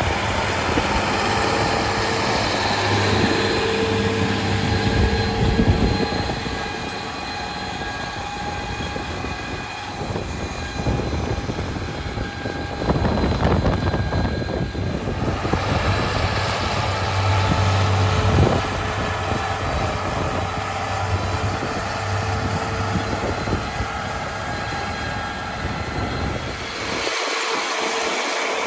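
Farm machinery engine running steadily under load, a continuous mechanical hum with a steady drone; the low hum cuts out briefly near the end.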